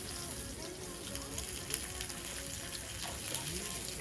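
Faint voices over a steady hiss, with a few small clicks.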